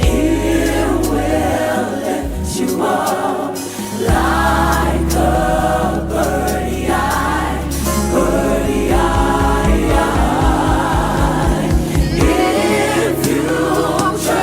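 Gospel choir singing over an instrumental backing with a prominent bass line, which turns into a quick repeated low figure in the second half.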